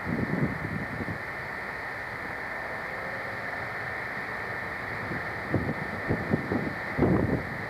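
Wind buffeting the camcorder microphone in irregular gusts over a steady tape hiss, with a gust about a second in and more near the end.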